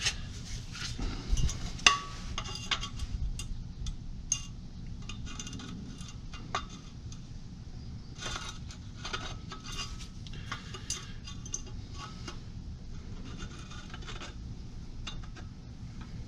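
Irregular metallic clinks and scrapes of steel exhaust pipe sections being handled and slid together, over a steady low hum.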